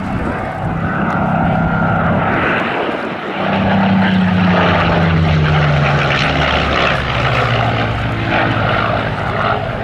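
Spitfire's Rolls-Royce Merlin V12 engine running at display power in a fly-by, its pitch falling steadily for a few seconds as it passes, about halfway through.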